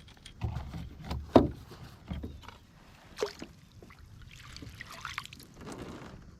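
Knocks and bumps in a lightweight solo canoe: several sharp ones in the first few seconds, one clearly the loudest, then a brief splashy rustle about five seconds in.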